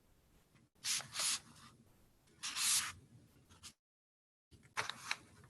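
Soft brush strokes on rice paper: four short dry hisses of the bristles sweeping the paper, with a second of dead silence before the last one.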